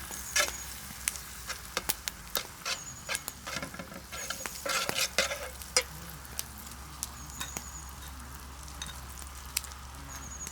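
Stuffed meat rolls frying in a pan over a wood fire: a steady sizzle with scattered sharp pops and clicks, busiest around the middle.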